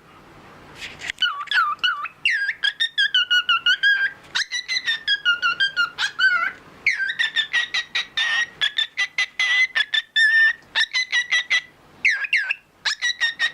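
A parrot whistling and chirping in fast runs of short, sweeping notes, several a second, with a few brief pauses between runs.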